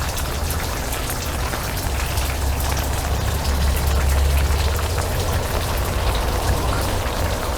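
Steady rain falling, with close drops pattering, over a low hum that swells slightly about halfway through.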